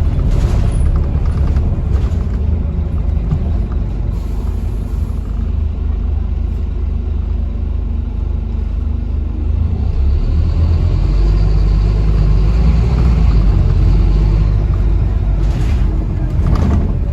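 Scania Enviro 400 double-decker bus on the move, heard from on board: a steady low engine and road rumble with occasional knocks and rattles. About ten seconds in the rumble grows louder for a few seconds and a faint high whine runs with it.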